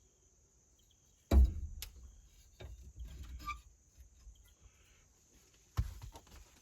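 Clunks and rattling of hands working the new turn signal switch and its wiring down into a steering column. A loud sharp knock comes about a second in, then softer clatter, and another knock near the end.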